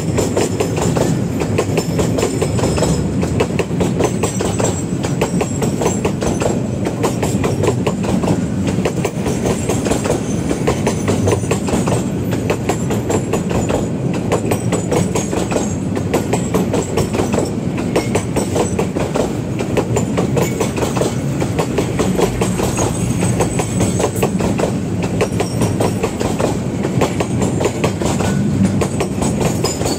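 Container freight train's flat wagons rolling past at close range, the wheels clattering steadily on the rails.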